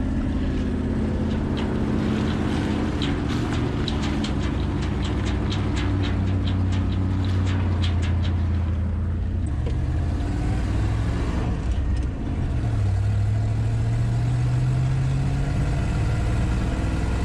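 Ford F350 dump truck's V8 engine running as the truck drives off, with a run of sharp ticks, about two a second, in the first half. About twelve seconds in, the engine note dips briefly, then rises steadily in pitch as the truck accelerates.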